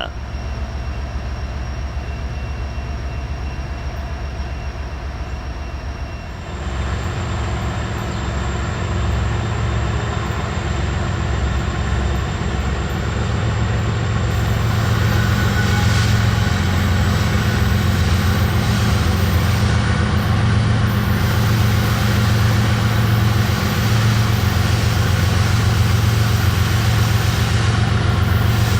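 Diesel locomotives of a coal train running under power as the train proceeds, a steady low engine rumble that gets louder about six seconds in and keeps building gradually.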